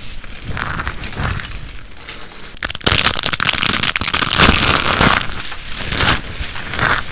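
Dry soap crunching and crackling as it is broken up. At first there are a few separate, softer crunches; about three seconds in it turns to a louder, dense crackling crunch.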